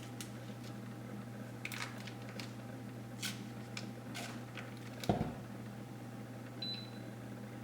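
A steady low hum with scattered light clicks and knocks, a heavier knock about five seconds in, and a short high electronic beep near the end.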